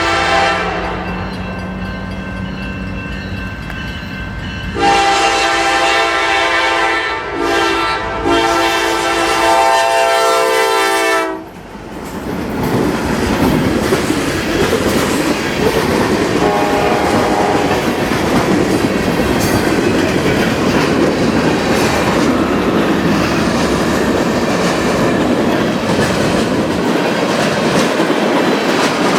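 A train's locomotive horn sounds a long blast, a short one and a long one about five seconds in. The train then rolls past with a steady rumble and the clickety-clack of wheels over the rail joints.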